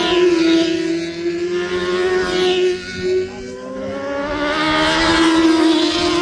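Racing motorcycle engines at high revs passing close by. The note dips about three seconds in, then a bike's engine grows louder and climbs slightly in pitch as it approaches.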